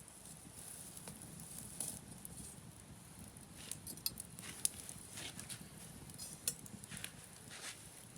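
Wood campfire burning: irregular sharp crackles and pops over a steady low rush of flame.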